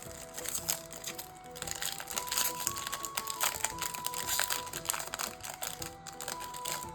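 Foil wrapper of a Yu-Gi-Oh booster pack crinkling in the hands as the pack is opened, in irregular bursts. Background music with a simple stepping melody plays underneath.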